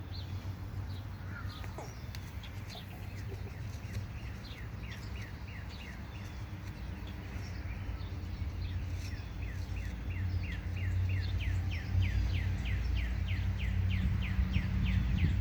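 A bird calling a long series of short, downslurred notes, quickening to about three a second, over a low rumble that grows louder in the second half.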